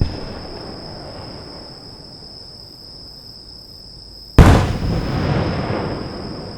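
Fireworks shells bursting overhead: a sharp bang at the very start, then a much louder boom about four and a half seconds in whose rumbling tail fades over about two seconds. Insects chirr steadily throughout.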